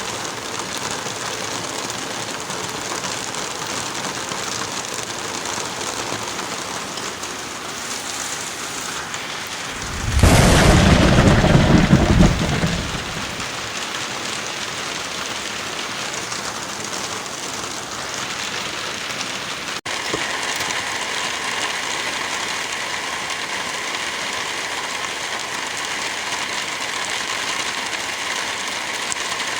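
Heavy rain falling steadily, with a loud thunderclap about ten seconds in that lasts a couple of seconds and dies away. Just before twenty seconds the sound drops out for an instant and the rain carries on with a slightly different tone.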